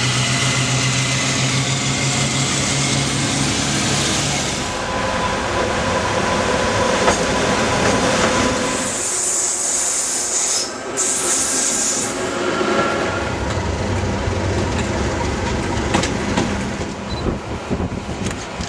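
Passing mainline trains heard in a series of short clips: first a diesel locomotive working hard, with a steady engine note that cuts off about four seconds in. Then comes the rumble and rail noise of passing carriages, with a loud high hiss from about nine to twelve seconds.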